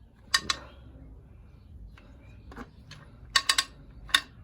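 Sharp metallic clicks and rattles from a Mercury 25 hp outboard's recoil starter as the clamp holding the pulley is taken off and the spring winds the new pull rope back in: a couple of clicks about half a second in, a quick cluster of three past three seconds, and one more near the end.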